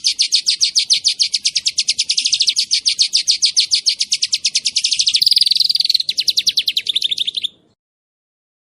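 Small songbird singing a rapid 'shooting' trill (nembak) of about ten high notes a second, kept up for about seven and a half seconds. The pitch shifts about five seconds in, then the song stops.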